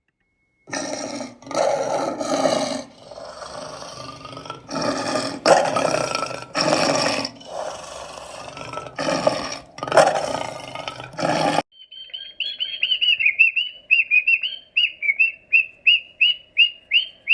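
A run of loud animal roars, then a bird calling in a quick series of short, high chirps, about three a second.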